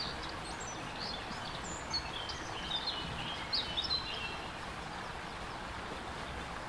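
Birds giving many short, high chirps over a steady background hiss. The chirps are clustered in the first four seconds or so.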